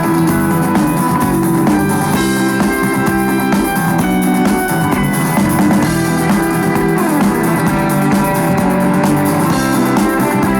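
Live rock band playing an instrumental passage between vocal lines: guitars, bass guitar and drum kit.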